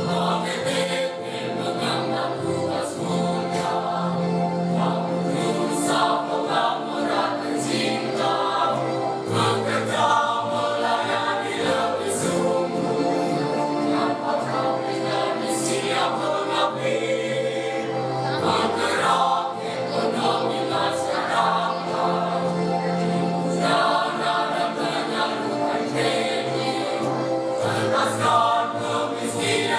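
A school choir singing in several parts, with long-held low notes under moving upper voices.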